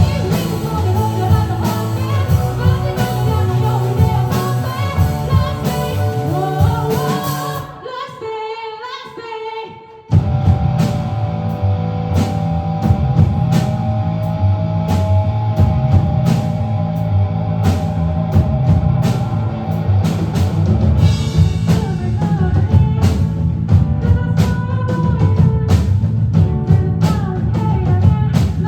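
A live rock band plays a song with a lead singer over drum kit, bass and electric guitars. About eight seconds in the band drops out for about two seconds, leaving a quieter wavering line, then the full band comes crashing back in.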